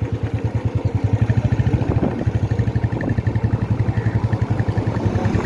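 Motorcycle engine running steadily while the bike is ridden along a road, a low even throb heard from on the bike.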